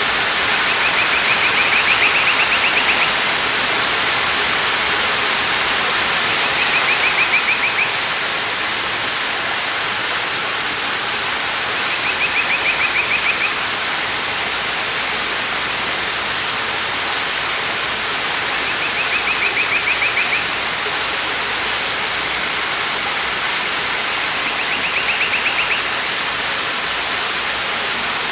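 A waterfall's steady rush of falling water, with a bird giving a short, fast trill five times, about every six seconds.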